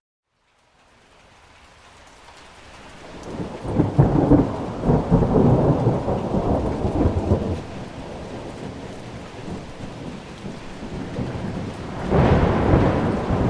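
Thunderstorm: steady rain with two rolls of thunder, a long rumble building from about three seconds in and a second one breaking in suddenly near the end. At the very start the sound drops briefly to near silence and fades back in.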